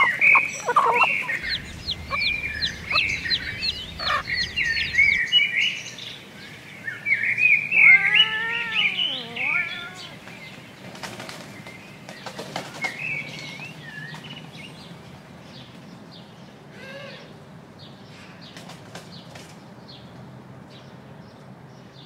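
Birds chirping and calling, busy and close in the first half with rapid high chirps and warbling calls, then thinning out to scattered faint chirps.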